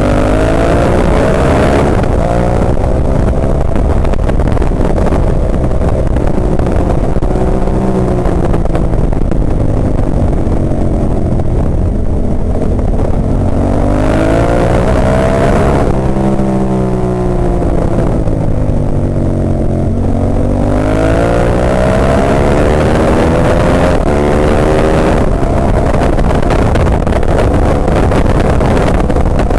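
Ducati 998 superbike's L-twin engine at racing speed, its pitch rising and falling again and again as the rider accelerates, shifts gears and slows for corners, over rushing wind noise.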